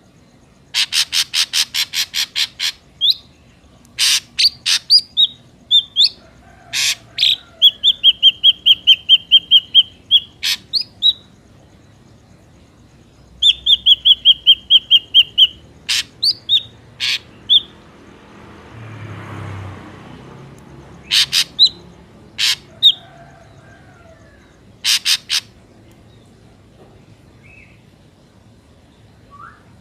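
Ashy drongo calling: fast runs of short, sharp repeated notes, some clicky and some clear and whistled, broken by single loud notes. A soft rush of noise swells and fades around the middle.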